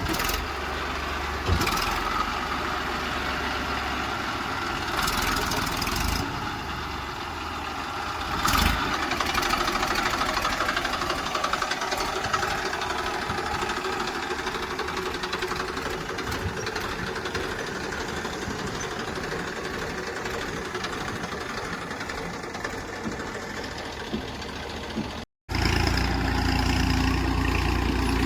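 Heavy diesel engines of a backhoe loader and tractors running at a mud-loading job, with a few sharp clunks in the first nine seconds. About 25 seconds in, a brief dropout cuts to a louder, steadier engine with a deep hum.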